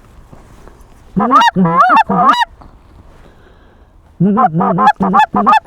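Canada goose call blown by a hunter: about four honks, then a quicker run of six or so about three seconds later.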